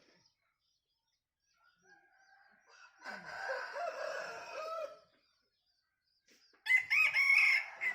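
Bantam rooster crowing twice. The first crow runs from about three to five seconds in, and a louder, higher-pitched crow starts near the end.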